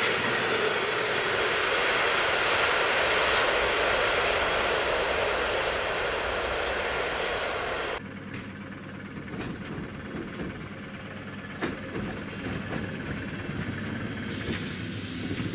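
Passenger train coaches rushing past close at speed, a loud steady rush of wheels on rails and swirling snow. About 8 s in the sound drops abruptly to the quieter running of an electric commuter train, with a few sharp wheel clicks.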